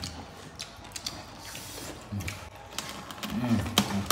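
Close-up eating sounds: chewing and lip-smacking on fried chicken and rice eaten by hand, a run of small irregular wet clicks. A couple of brief low hums from a voice come partway through.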